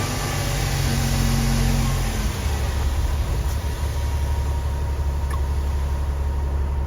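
Diesel engine of a Peterbilt 379 tractor running at raised throttle to drive the hydraulic hoist while the dump trailer bed rises. The engine note changes and drops lower about two and a half seconds in.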